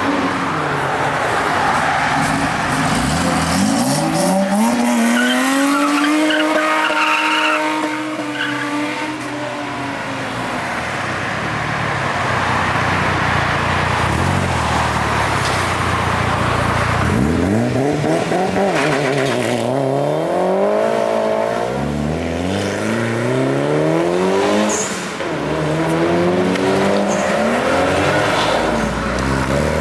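Car engines revving hard as cars pull away. One engine climbs to high revs and holds them for a few seconds. Later comes a run of quick revs rising and falling.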